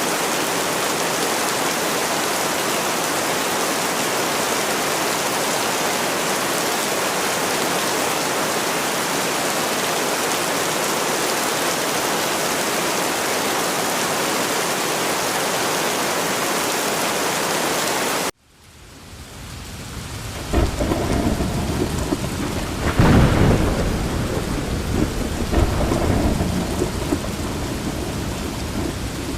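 Steady, even hiss of heavy rain that cuts off abruptly about two-thirds of the way through. A thunderstorm then fades in: rain with several low rumbles of thunder.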